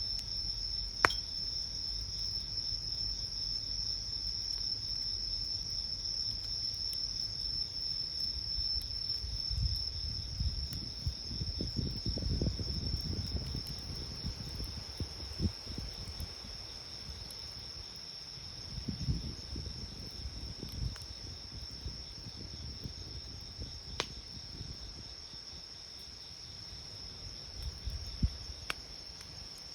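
Night insects keep up a steady, high-pitched trilling chorus beside a wood campfire. The fire gives a few sharp pops, one about a second in and two more near the end, and there is some soft low rumbling of burning wood or flames.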